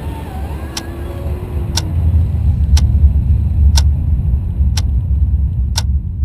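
A clock ticking about once a second over a deep, continuous rumble that grows louder in the middle.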